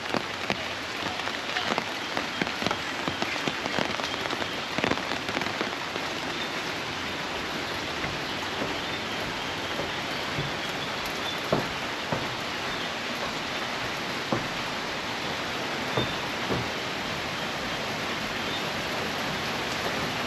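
Heavy tropical rain falling steadily and pattering on surfaces, with scattered louder drips and taps.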